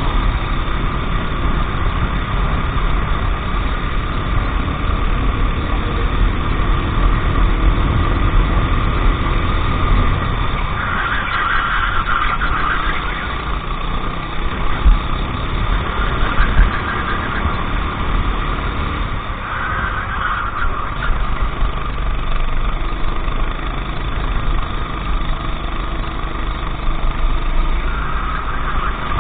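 Racing kart engine running continuously, its pitch rising and falling as the kart speeds up and slows through the lap, over a heavy low rumble.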